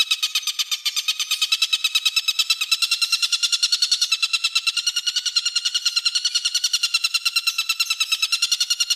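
A songbird's harsh, rasping rattle call (the 'besetan' used in masteran bird-training recordings), a fast even train of about eight strokes a second held steadily without a break.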